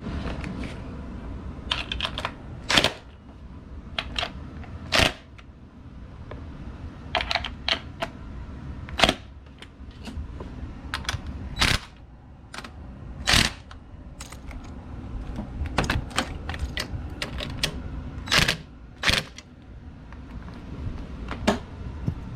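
Irregular sharp clicks and knocks, a few much louder than the rest, over a steady low hum: hand tools at work on a car during an engine swap.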